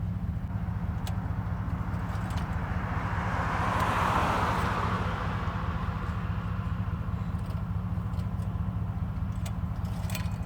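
Steady low engine hum of a nearby vehicle, with a car passing by that swells and fades about four seconds in.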